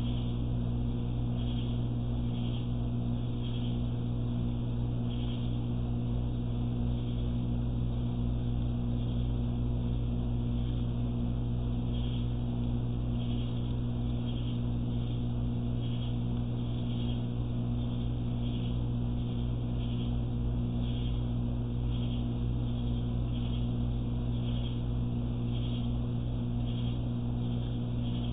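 A steady low machine hum holds evenly throughout, with faint short high chirps repeating about once a second.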